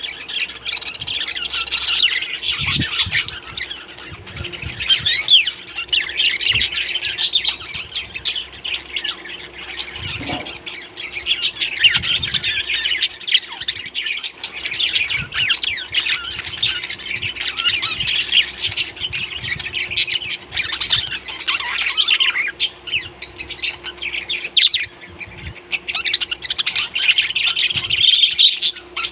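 Many small pet parrots chattering, chirping and squawking together without pause, a dense high-pitched din of overlapping calls. A faint steady hum sits underneath.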